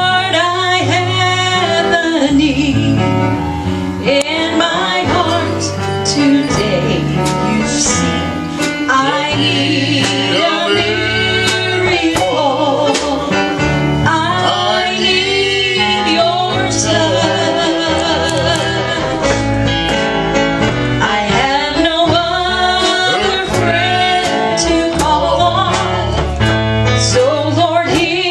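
Country-style gospel song: voices singing over instrumental accompaniment with a steady bass line and regular sharp percussive hits.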